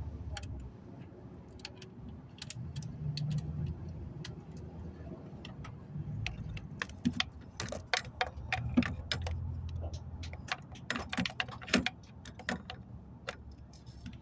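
Irregular light clicks and clinks of small hard objects being handled, over an uneven low hum.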